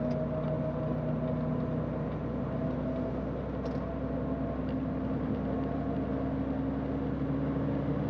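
Steady drone of a semi truck's diesel engine with road noise while cruising at an even speed.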